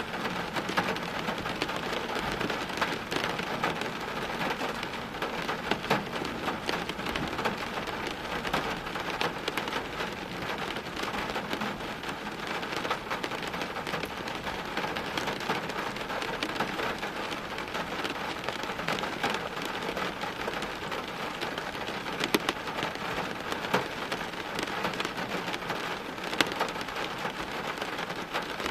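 Steady heavy rain falling on hard surfaces, a dense hiss full of close drops and splatters, with a few sharper, louder drop hits here and there.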